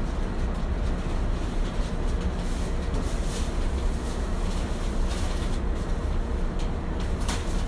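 Kintetsu 1420 series electric train standing at the platform before departure: a steady low hum from its onboard equipment, with a brief click near the end.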